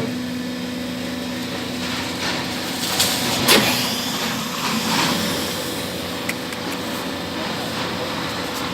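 Hydraulic carton baling press running: a steady hum from its electric motor and hydraulic pump, with a few sharp knocks about three to five seconds in.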